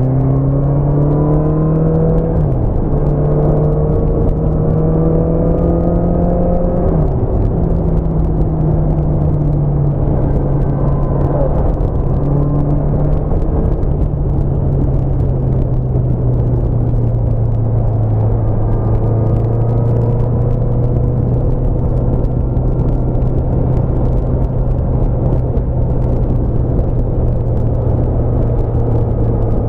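Honda CBR650F's inline-four engine pulling hard, with two quick upshifts in the first several seconds where the pitch climbs and then drops sharply. It then runs at a steady speed for the rest of the time, with wind rushing over the microphone.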